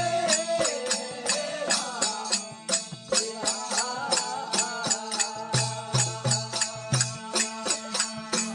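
Rajasthani devotional folk (bhajan) music: a steady beat of drum and jingling hand percussion, about three to four strokes a second, under a melody line that bends and wavers in pitch.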